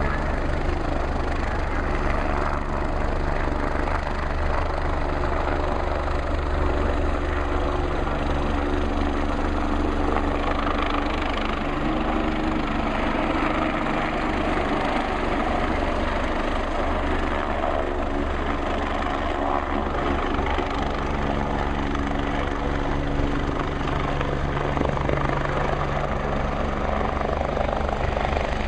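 MBB/Kawasaki BK 117 rescue helicopter with its twin turbine engines and rotor running steadily: a deep rotor rumble under an even mechanical roar that holds at one level throughout.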